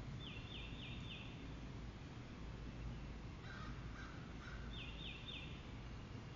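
Wild birds calling in woodland: a songbird gives a quick series of three or four downslurred whistles twice, near the start and near the end. About halfway through, a lower-pitched bird call sounds three times. A steady low rumble sits underneath.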